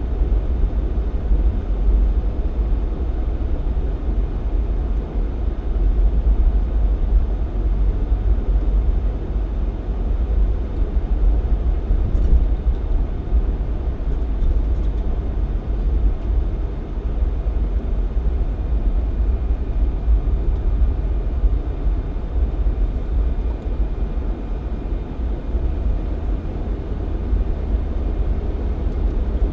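Jeep Cherokee XJ driving steadily on a snowy highway: a constant low rumble of engine and road noise.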